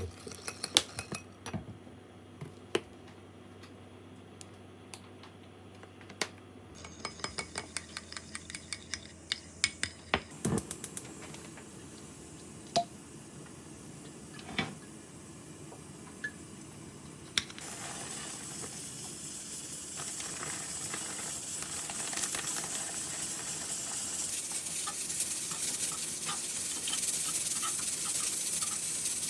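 Kitchen clatter: scattered clinks and knocks of cookware and utensils, including a quick run of taps, then from a little over halfway a steady sizzle of food frying in a pan that slowly grows louder.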